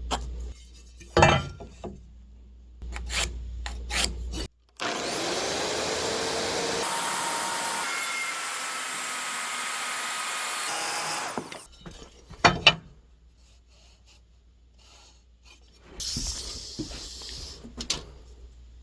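A saw cutting through wood for about six seconds, with a shorter cut later. Sharp knocks of wood come before and between the cuts.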